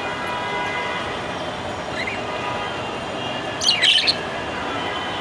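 Male budgerigar chirping: a short faint chirp about two seconds in, then a louder quick burst of high chirps near four seconds, over a steady background hum.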